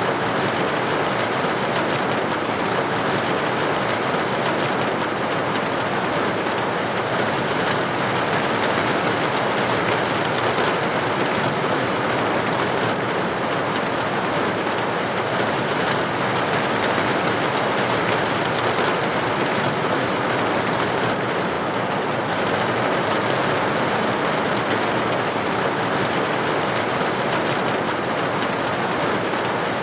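Steady rain falling and pattering on a window pane, an even hiss of many drops.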